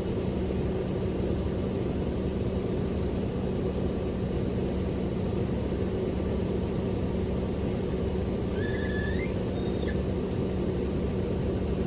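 Truck running down the road: a steady engine and road drone with a constant low hum. Near the end comes a short, high squeak that rises in pitch.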